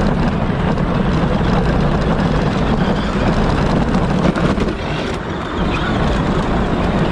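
Power Wheels ride-on toy car driving, the steady whir of its electric drive motors and gears, easing briefly about five seconds in.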